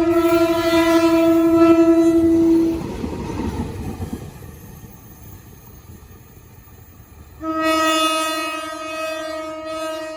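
Diesel locomotive horn held in one long steady blast that stops about three seconds in. The train then rumbles by with wheels clattering on the rails, and a second long horn blast starts at about seven and a half seconds and fades near the end.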